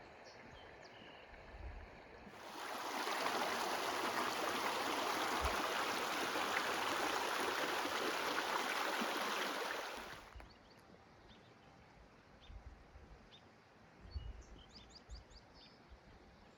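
Running water, a steady rushing noise that comes in suddenly a couple of seconds in and cuts off abruptly about ten seconds in. Faint bird chirps are heard in the quiet before and after it.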